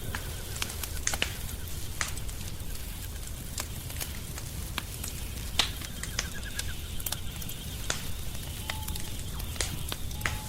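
Wood fire crackling in a fireplace, with irregular sharp pops and snaps over a low, steady rumble of burning.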